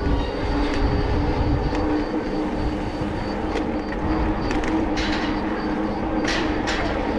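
A heavy vehicle rumbling steadily with a held hum, with scattered light ticks and two short hisses near the end.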